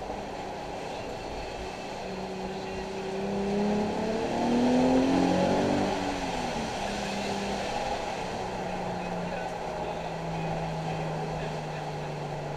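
Nissan 370Z's 3.7-litre V6 revving up under acceleration, loudest about four to six seconds in. It then settles to steady, lower revs that ease slowly downward near the end.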